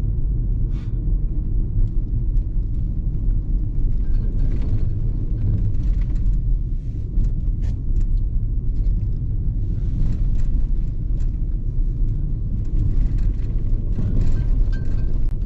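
Steady low rumble of a car's engine and tyres heard from inside the cabin while driving down a slope on a snowy road, with faint scattered ticks and knocks.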